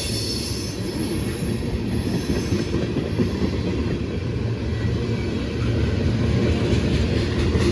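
Loaded ethanol tank cars of a freight train rolling past at speed: a steady rumble of wheels on rail, with a high hiss that fades out after about three seconds.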